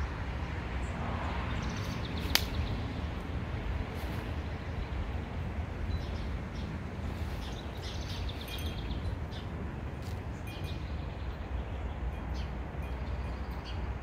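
Short, high bird chirps at scattered moments over a steady low rumble, with one sharp click a couple of seconds in.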